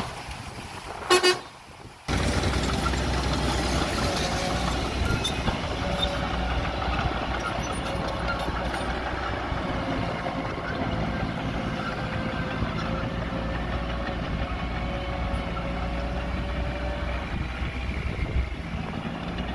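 A short vehicle horn toot about a second in, then the diesel engine of heavy earthmoving machinery running steadily, with a strong low hum.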